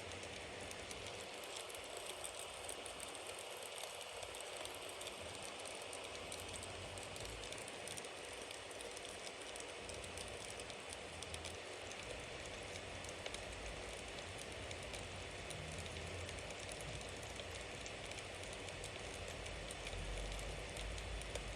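Wood bonfire burning with a steady hiss and many small, quick crackles and pops, plus a low rumble that swells slightly near the end.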